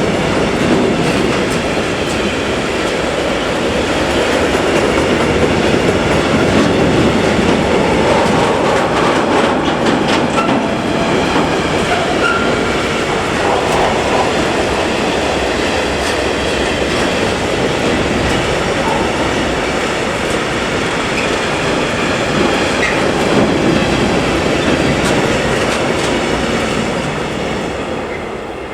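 A train passing close by for a long stretch, its wheels running loudly over the rails with a faint clatter. The sound tails off near the end as the train goes by.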